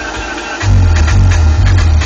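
Electronic dance music played loud through a car sound system. A heavy, deep bass beat comes in a little over half a second in.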